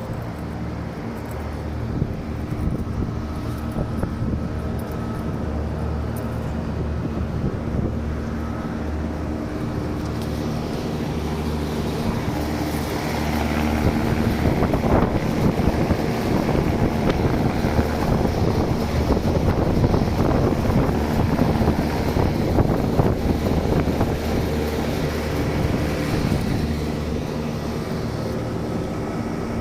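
Steady machine hum with a rushing, air-like noise that grows louder about halfway through, then eases off near the end.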